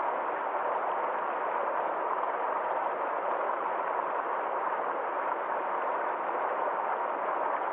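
A small forest stream flowing over rocks: a steady, even rush of water that does not change.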